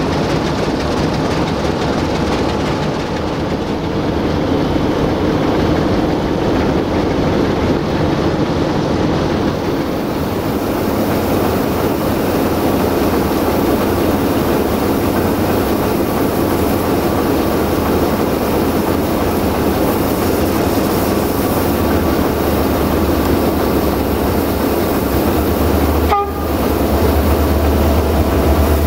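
Passenger train rolling past close by, its coaches' wheels clattering over the rails with a steady loud rolling noise. Over the last several seconds a deep low rumble grows beneath it.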